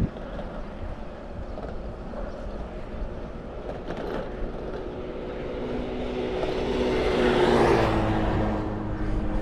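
A motor vehicle passing close by: its engine and tyre noise swells to a peak about seven to eight seconds in, dropping slightly in pitch as it goes past, over a steady low rumble of wind and road noise from the moving bicycle.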